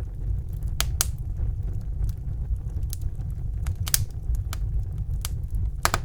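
Wood fire burning in a fireplace: a steady low rumble of flames under irregular sharp crackles and pops from the burning logs, a few louder pops about a second in, near four seconds and near the end.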